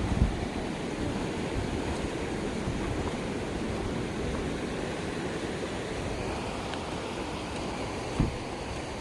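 Mountain stream rushing steadily over rocks, a continuous water noise. Two dull low thumps stand out, one just after the start and one near the end.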